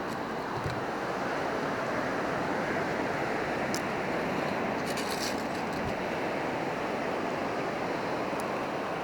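Ocean surf washing on a beach, a steady rush of noise, with a few faint light clicks now and then.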